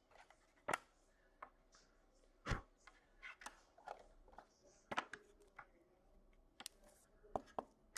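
Trading cards being handled: faint, scattered taps, clicks and slides of cards, with a sharper tap about two and a half seconds in.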